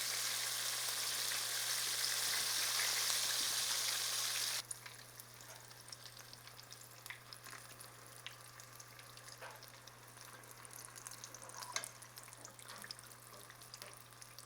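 Battered teal duck breast strips deep-frying in hot oil: a steady sizzle that cuts off suddenly about four and a half seconds in, leaving only faint scattered crackles and ticks.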